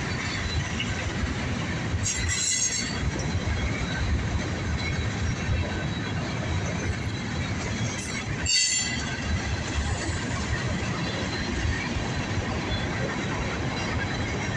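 Norfolk Southern freight train's cars rolling past, with steady wheel and rail rumble. High-pitched wheel squeals cut in briefly twice, about two seconds in and about eight and a half seconds in.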